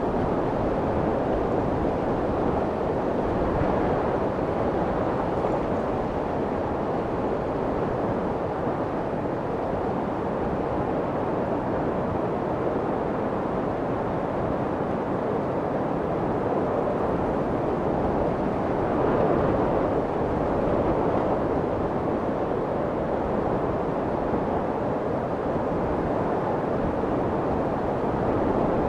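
Steady, muffled white noise of the womb-imitating kind used to soothe a crying baby, with most of its energy in the lows and mids and little hiss up top. It swells and eases slightly now and then.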